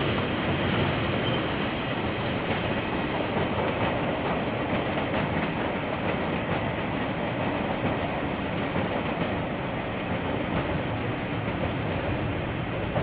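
KiwiRail train rolling past on the rails, a steady rumble heard through a security camera's microphone.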